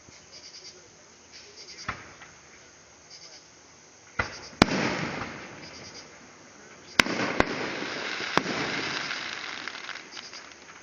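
Fireworks going off: several sharp bangs, the loudest about four and a half and seven seconds in. Each of those two is followed by a few seconds of crackle.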